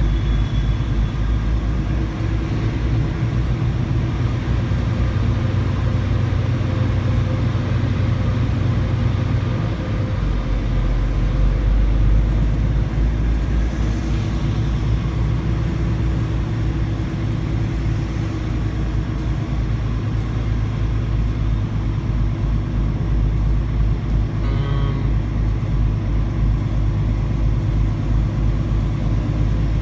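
Semi truck's diesel engine running steadily as the rig drives along, a continuous low drone whose pitch drops about ten seconds in.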